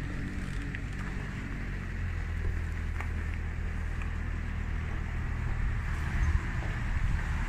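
ACME VT88 petrol engine of a BCS Mini two-wheel hay mower running steadily.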